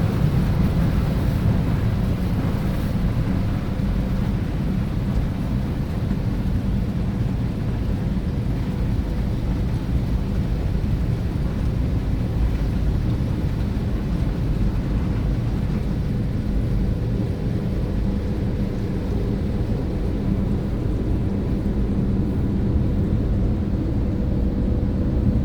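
Automatic tunnel car wash machinery running, a steady low rumble with a faint hum, heard from inside the car.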